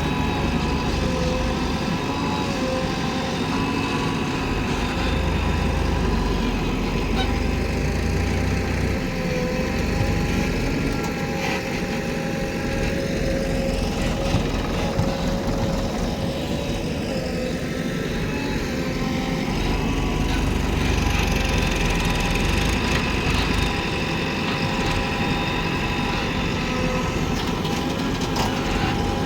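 Diesel engines of a JCB backhoe loader and tractors running steadily while digging and moving soil, with a low rumble and several steady whining tones. A few sharp knocks sound now and then.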